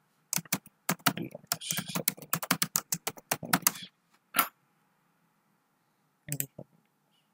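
Computer keyboard typing: a quick run of keystrokes for about three and a half seconds, then a single keystroke about half a second later, and a brief clatter of clicks near the end.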